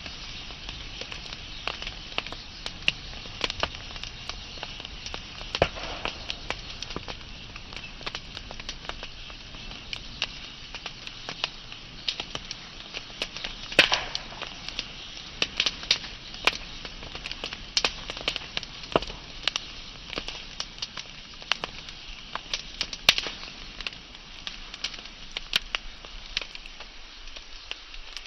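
Wood fire burning with a steady hiss and irregular crackles and sharp pops from the burning logs, a few louder pops standing out.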